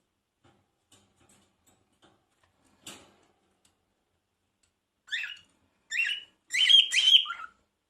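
Pet parrot calling: three chirping calls with sweeping pitch in the last three seconds, the third longer and loudest. Before them there are a few faint clicks and a soft tap.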